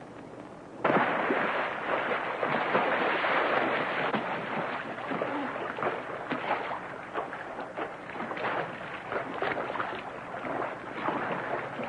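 Water splashing and rushing, coming in abruptly about a second in and going on as a rough, uneven wash.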